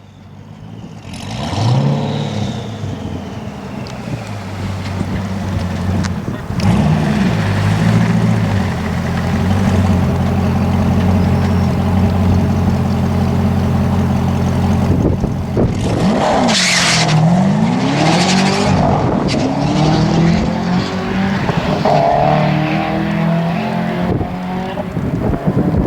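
Twin-turbo Corvette C6 V8 running hard on a quarter-mile drag run, its pitch climbing and stepping as it goes through the gears. About fifteen seconds in the engine note swings down and back up as the run eases off.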